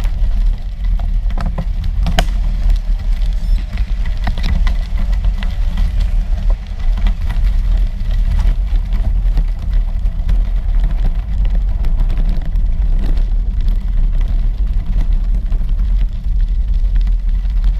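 Wind buffeting a camera microphone during a bicycle ride: a loud, steady low rumble with scattered small clicks and rattles.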